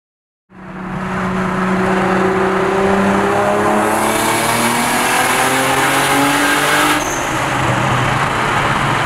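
A car engine accelerating, its pitch rising steadily over several seconds with a rush of road and wind noise, changing abruptly about seven seconds in.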